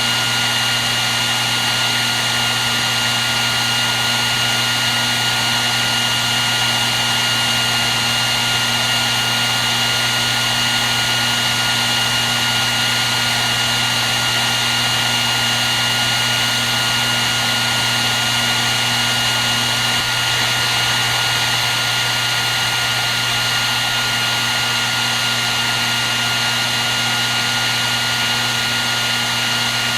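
Hair dryer running continuously: a steady rush of blowing air with a constant high whine and a low hum, unchanging throughout.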